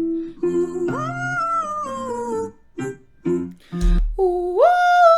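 A woman vocalising a warm-up exercise in her head voice: twice she slides up to a high note and steps down a descending scale, with piano notes sounding in between.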